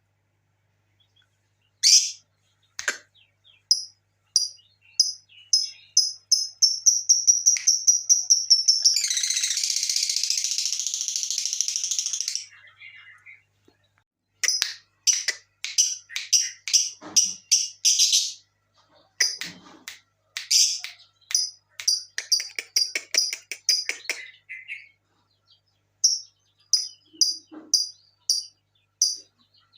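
Lovebird calling: series of short, shrill chirps that speed up into a long, buzzy chattering trill of about three seconds, then further runs of rapid chirps.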